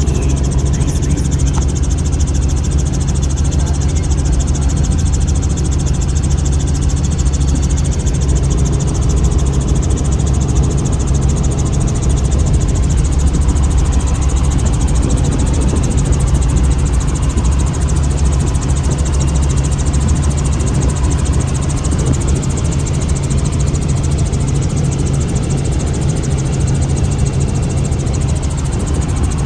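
Helicopter in flight heard from inside the cabin: a steady, loud engine and rotor drone with a low hum that holds unchanged.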